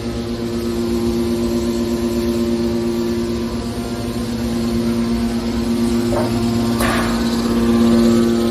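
Hydraulic can baler's motor and pump running with a steady hum, with a brief rattle about six seconds in and another about a second later.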